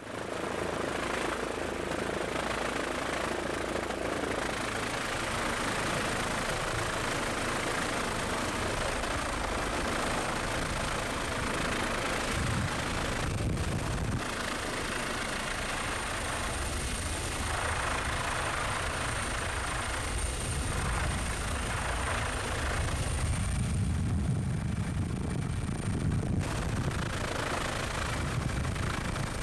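Helicopter engine and rotor noise heard from on board: a steady, noisy drone with a low pulsing throb and a thin high turbine whine.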